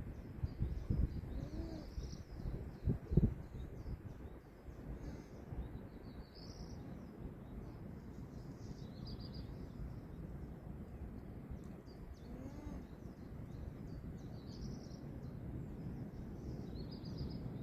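Small birds chirping on and off in the background over a low rumble of wind, with a few dull knocks about one and three seconds in.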